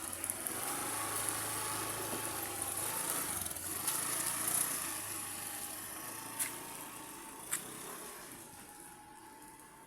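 A steady engine hum with hiss, fading out over the last few seconds, with two short sharp clicks past the middle.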